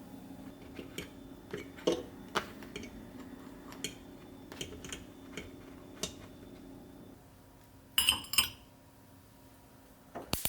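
Kitchen handling sounds: scattered light clicks and knocks of dishes and utensils being set down and moved, over a steady low hum that stops about two-thirds of the way through. Near the end come two louder clinks with a ringing tone, like ceramic or glass struck together.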